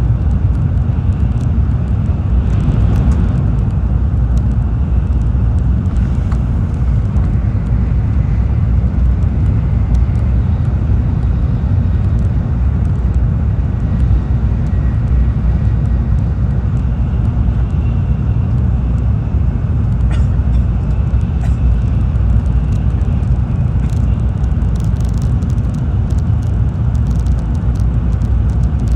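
Tokaido Shinkansen running at speed, heard from inside the passenger car: a steady low rumble of wheels and running gear, with a few faint clicks.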